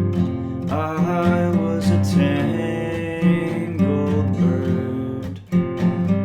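Music: strummed acoustic guitar with a gliding melody line over it, which drops out briefly near the end before the strumming picks up again.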